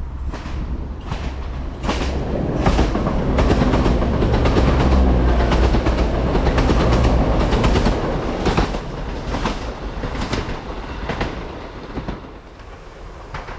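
East Midlands Railway Class 170 Turbostar diesel multiple unit running through the station without stopping. Deep engine and wheel rumble swells to a peak and then fades as it draws away, with the wheels clicking over rail joints in a regular clickety-clack.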